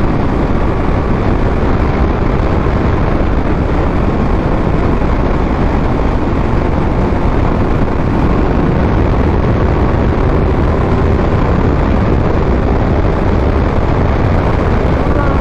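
Steady wind rush on the rider's microphone over the running three-cylinder engine of a Triumph Speed Triple 1200 RS motorcycle at riding speed.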